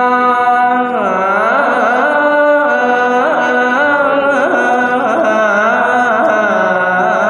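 A young monk's voice singing a long melismatic line of Thai sermon chant (thet lae): one held note, then from about a second in a melody that slides and wavers on drawn-out vowels.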